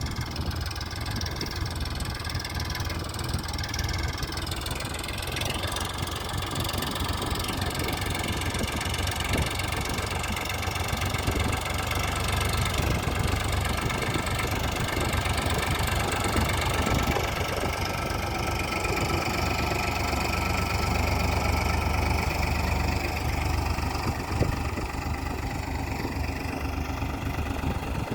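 Farmtrac tractor's diesel engine running steadily: a continuous low clatter with a steady whine above it.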